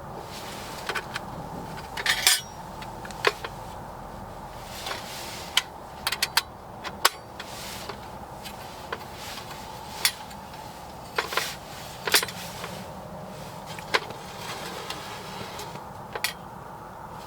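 Small hard objects being handled: scattered clicks, clinks and light knocks, some in quick clusters, over a steady low background hum.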